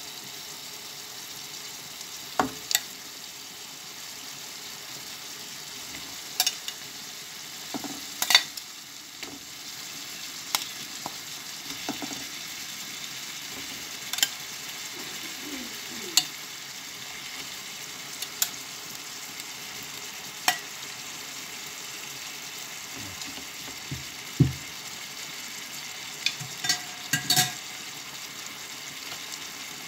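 Chicken and vegetables sizzling steadily in a pot, with metal tongs clicking sharply against the cookware every second or two as chicken pieces are lifted in. The clicks come in a quick cluster near the end.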